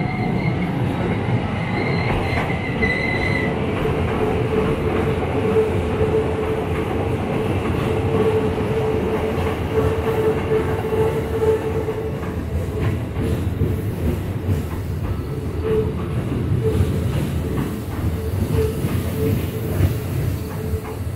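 Keikyu 1500 series electric train running past at close range: a steady rumble of wheels on rails, with a sustained whining tone through most of the pass that breaks up near the end.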